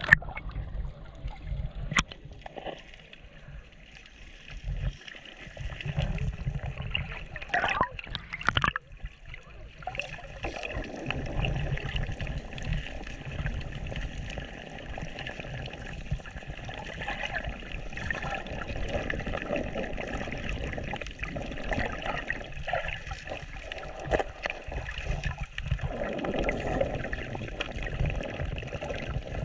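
Shallow sea water sloshing and gurgling, with trickling and small splashes that come and go unevenly.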